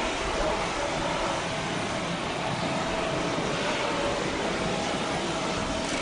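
Jet engines of a Boeing 737-800 airliner running, a steady rushing noise with a faint steady tone underneath.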